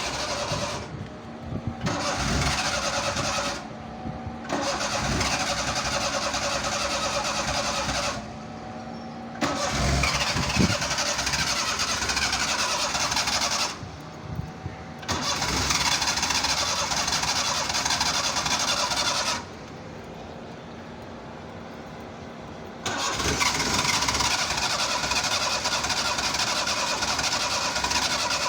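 Starter motor of an old carbureted Suzuki Mehran cranking the engine in about six long attempts, each several seconds long and each cut off abruptly, with short pauses between. This is a hard cold start, with the accelerator being pumped.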